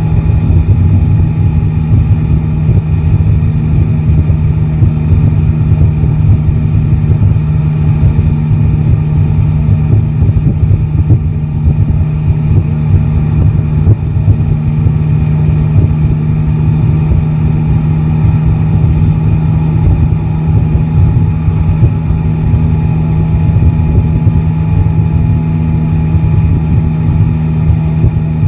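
Yamaha Tracer 9 GT's three-cylinder engine running at steady revs while riding, a constant low drone with a rough rumble beneath it.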